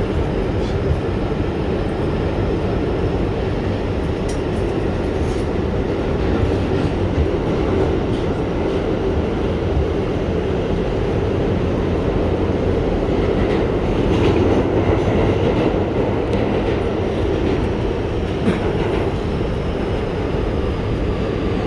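New York City Subway R211T train running along the track, heard from on board: a steady rumble of wheels on rail with scattered clicks from the rail joints. Near the end a faint falling whine sets in as the train slows for the next station.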